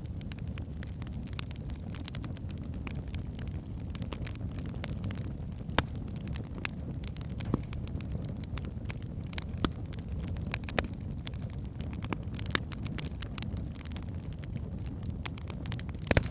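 Wood fire burning in a fireplace: a steady low rumble of the flames with irregular crackles and occasional sharper pops from the burning logs.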